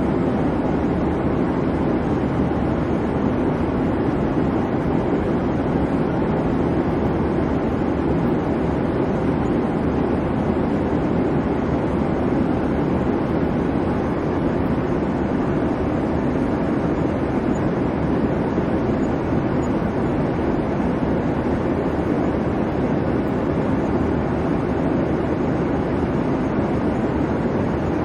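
Airliner cabin noise: a steady low rumble and hum of engine and airflow noise with no breaks or changes.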